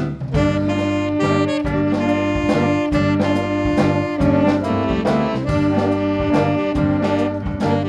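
Instrumental jazz-style music led by saxophone and brass over a steady beat.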